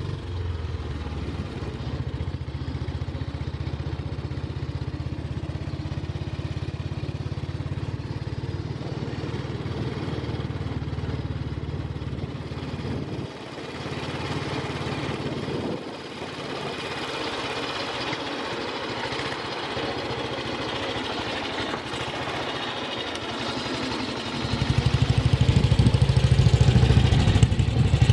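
1940 BSA WM40's 500cc single-cylinder side-valve engine running steadily, growing clearly louder about 24 seconds in.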